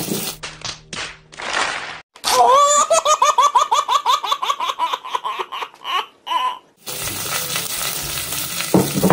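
A baby laughing hard in rapid, repeated belly-laugh bursts, after a few short rustles of paper being torn. Near the end, the steady sizzle of onion, garlic and ginger frying in the pot comes back.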